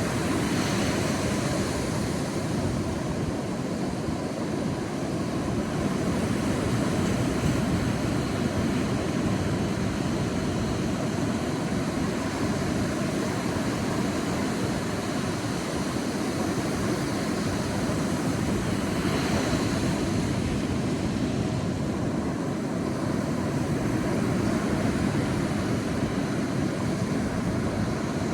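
Sea waves washing onto a beach: a steady rushing surf that swells and ebbs slowly, with a brighter wave breaking near the start and another about two-thirds of the way through.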